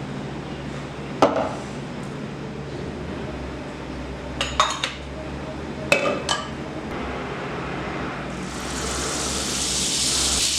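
Metal utensils and dishes clinking in a kitchen: a few separate clinks and knocks over a steady low hum. About two seconds before the end, a steady hiss sets in and grows louder.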